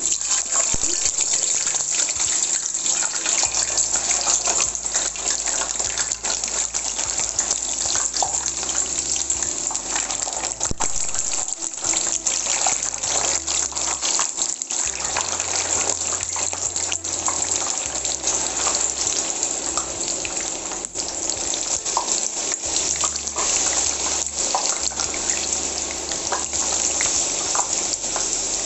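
Raw potato sticks, still wet from soaking, deep-frying in hot cooking oil in a pan: a steady sizzle with many small crackling pops.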